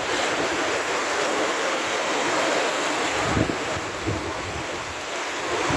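Steady rushing of a swollen, flooded river, with a couple of brief low buffets of wind on the microphone a little past the middle.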